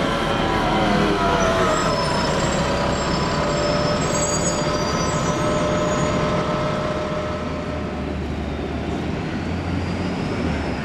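Heavy passenger vehicles moving close by. A steady low engine rumble runs throughout, with a whine that falls in pitch over the first two seconds, thin high squealing tones in the middle, and a whine rising in pitch near the end.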